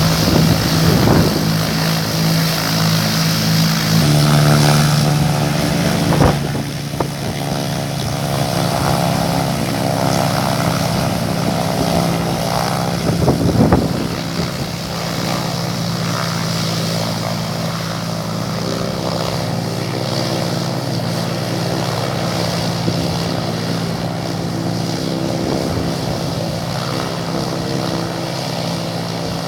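Cessna 340's twin piston engines and propellers running steadily, a little louder for the first six seconds and then settling to an even drone.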